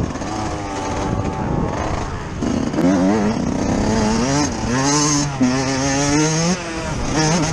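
Yamaha YZ125's single-cylinder two-stroke engine heard on board, revving hard under throttle over rough ground: its pitch climbs and wavers a few seconds in, holds high, drops sharply about two-thirds of the way through, then picks up again near the end, over steady wind and track noise.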